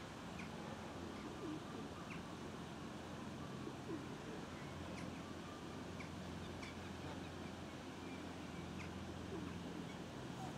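Scattered short, high bird chirps, one every second or two, over a low steady hum.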